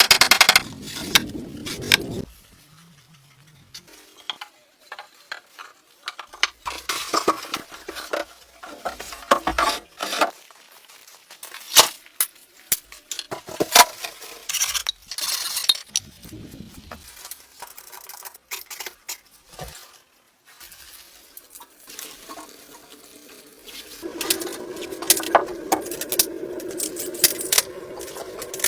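Scattered clinks and knocks of dishes and utensils being handled, with a steadier sound coming in near the end.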